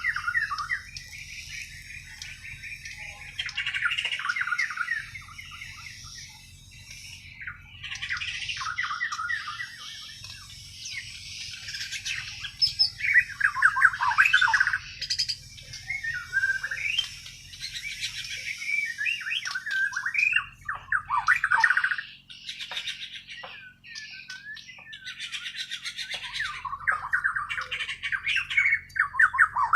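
Bornean white-rumped shama (murai batu) singing vigorously: a long run of varied, quick whistled phrases mixed with harsh notes, broken only by short pauses. This is its natural song, not learned from tutor recordings. A faint low hum lies underneath.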